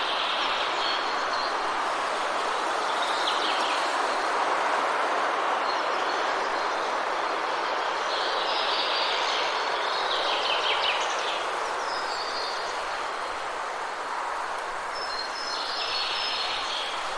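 Wind blowing steadily in a continuous rushing hiss, with short high chirps breaking in several times over it.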